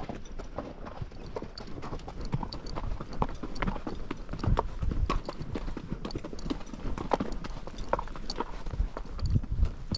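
Hooves of several ridden horses, the Icelandic horse among them, striking the trail in a steady, overlapping clip-clop.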